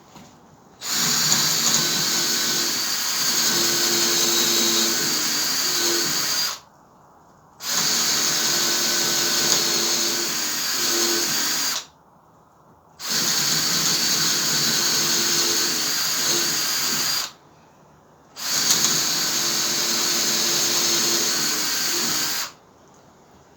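Power drill boring holes into a seasoned log, in four runs of about four to six seconds each with short pauses between.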